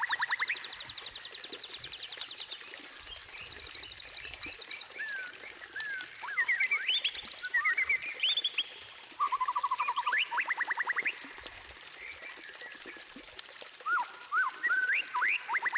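White-rumped shama (murai batu) singing a varied song of fast rattling trills and whistled up-and-down slurs, phrase after phrase with short gaps between.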